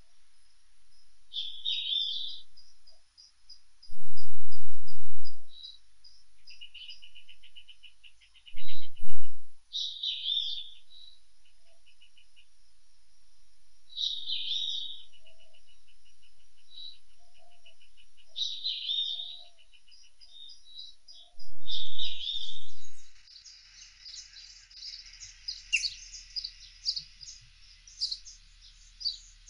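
Birdsong: one songbird repeats a short high phrase about every four seconds, with buzzy trills in between. Three brief, loud, low rumbles break in, and near the end a denser chorus of many chirping birds takes over.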